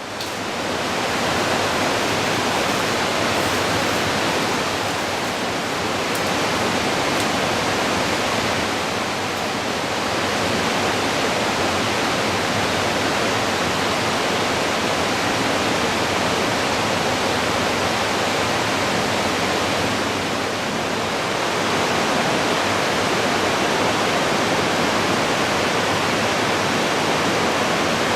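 Waterfall rushing: a steady, loud roar of falling water that swells slightly now and then.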